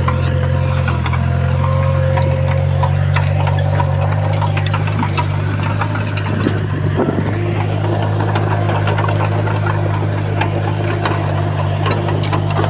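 Diesel engine of heavy earthmoving machinery running steadily, with scattered clicks and knocks over it.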